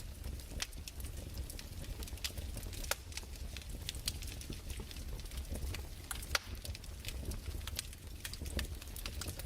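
Wood fire crackling, with irregular sharp pops and snaps, several each second, over a steady low rumble.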